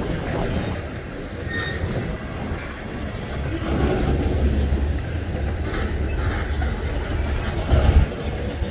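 Freight train cars rolling past, a steady low rumble of wheels on the rails that swells in the middle and near the end, with a brief high wheel squeal about a second and a half in.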